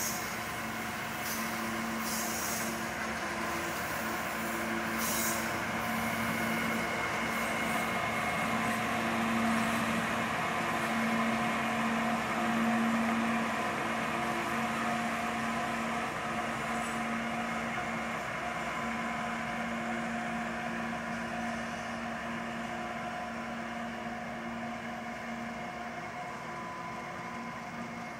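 Freight train with a diesel-electric locomotive pulling loaded coal hopper cars past. The engine drone and rolling rumble are loudest around the middle, then slowly fade as the train moves away.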